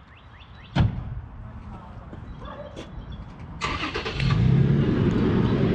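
A vehicle door shuts with a single sharp thud, then an engine starts up about three and a half seconds in and settles into steady running.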